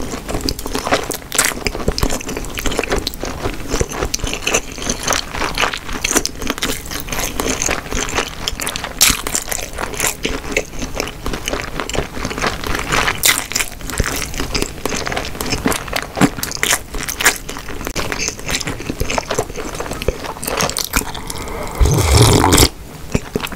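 Close-miked chewing of Korean blood sausage (sundae): wet, sticky mouth sounds with many small clicks. Near the end a louder slurp and swallow from a ceramic bowl, which cuts off suddenly.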